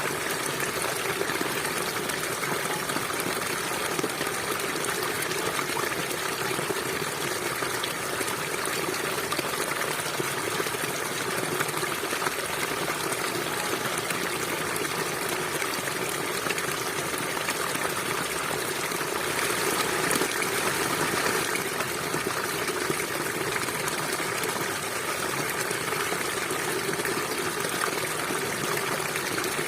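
Small stream flowing over rocks: a steady rush and trickle of water, swelling slightly for a couple of seconds about two-thirds of the way through.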